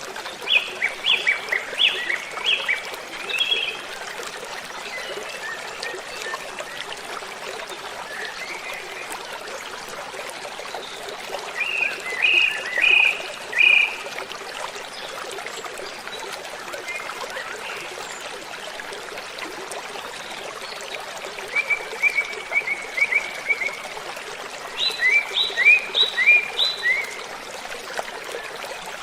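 Steady rush of a waterfall with birdsong over it: a bird sings four short phrases of quick repeated notes, at the start, near the middle, and two close together near the end, the last the loudest.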